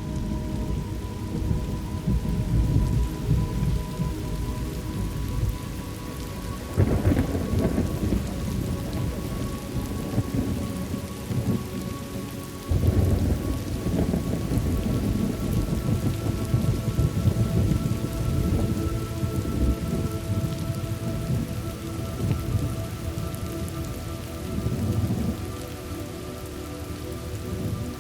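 Thunderstorm ambience: steady rain with continuous rolling thunder, and two louder thunderclaps about 7 and 13 seconds in.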